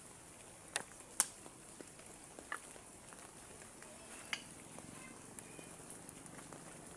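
Steady hiss of rain with a few sharp clicks and taps over it, the two loudest about a second in.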